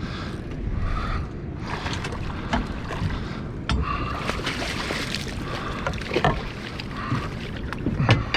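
Wind and water noise around a small fishing boat, with scattered knocks and clicks on the hull and gear, the loudest cluster near the end.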